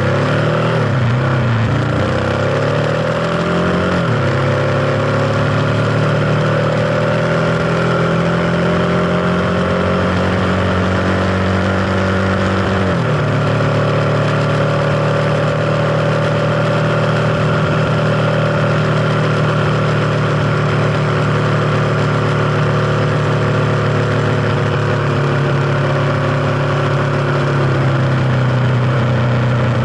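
Kawasaki KLX250's single-cylinder four-stroke engine running under way, pulling up through the gears: its pitch climbs over the first few seconds, drops at a gear change about four seconds in and again about thirteen seconds in, then holds fairly steady, easing slightly near the end.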